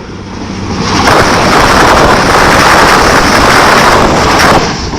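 A train passing close by: a loud rush of wheel and air noise that builds over the first second and drops away near the end, with wind buffeting the microphone.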